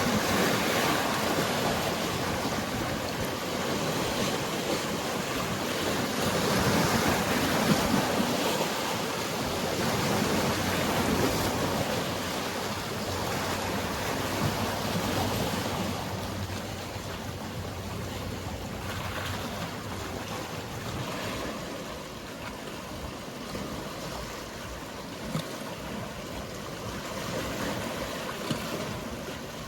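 Sea waves washing against the shore, a steady rushing wash that swells and eases, louder in the first half. A faint steady low hum runs underneath.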